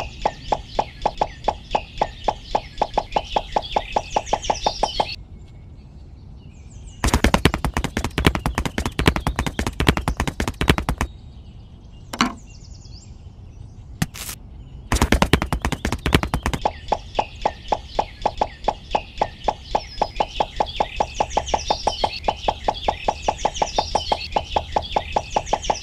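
Small white pebbles clattering together in two spells of dense rattling, with single clacks as stones are set down. Under and around them runs an even, rapid knocking of about eight knocks a second, with bird-like chirps above it.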